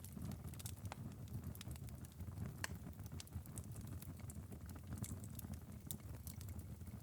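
Wood fire burning down to a glowing ember bed in a fireplace: scattered sharp crackles and pops, a few every second, over a low steady rumble.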